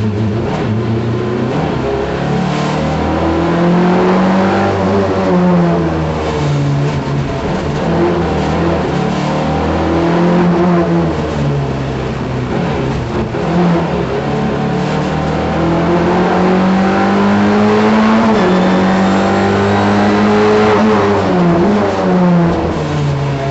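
Simca rally car's engine, heard from inside the cabin while driven hard on a stage. Its pitch climbs under acceleration and drops back again and again, with the gear changes and the lifts off the throttle for corners.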